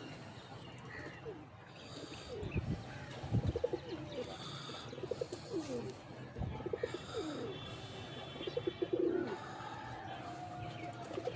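Domestic pigeons cooing: repeated low, gliding coos in clusters, with some higher chirps mixed in.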